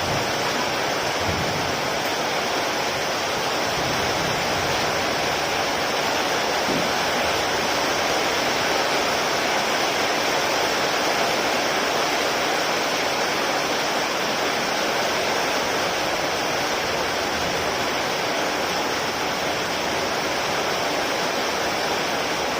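Heavy rain falling, a steady even hiss with no thunderclaps.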